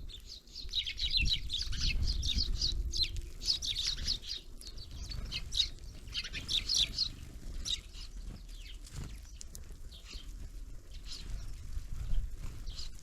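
Small songbirds at a feeder chirping in quick bursts of high notes for about the first seven seconds, then sparser, fainter calls, over a low rumble.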